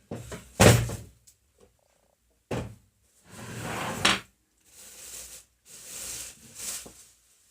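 Packaging being handled and unpacked: a string of short rustles and light knocks, about half a dozen separate bursts with pauses between them.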